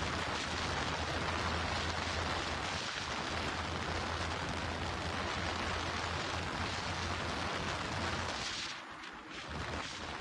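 Wind rushing hard over the microphone of a motorcycle ridden at high speed, with a steady low engine drone underneath. Both drop off briefly about eight and a half seconds in.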